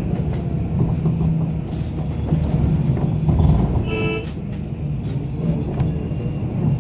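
Road traffic with a vehicle engine running steadily, and a short horn honk about four seconds in.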